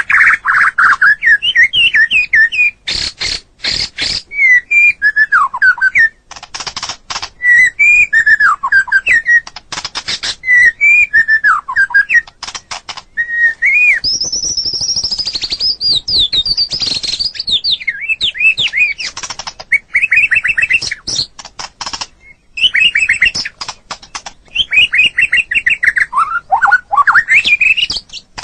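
White-rumped shama (murai batu) singing a varied song of loud whistled phrases, broken by quick dry rattling notes, with a higher, faster trill about halfway through.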